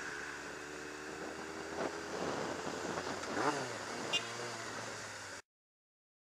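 Motorcycle engine running under wind noise on the rider's helmet microphone, its note dipping and rising briefly about three and a half seconds in, with a small click just after. The sound then cuts off suddenly to total silence.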